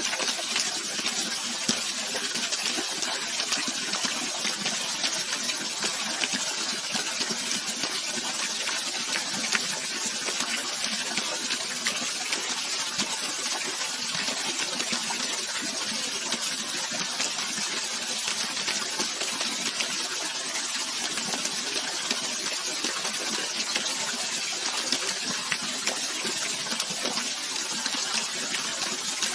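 Steady rush of flowing water, even and unbroken, with fine splashing throughout.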